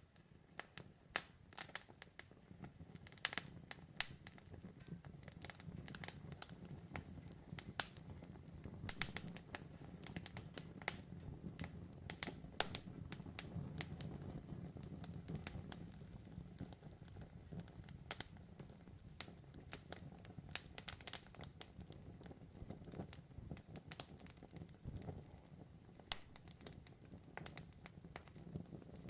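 Wood campfire crackling, with irregular sharp pops and snaps over a low, steady rush of burning flames.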